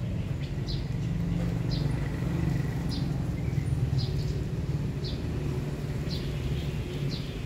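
A bird chirping, one short high chirp about once a second, over a steady low hum.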